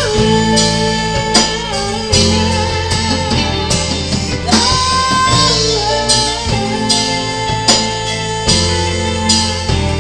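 An instrumental passage of a band song: a sustained, gliding lead line over steady bass notes and a regular drum beat, with guitar.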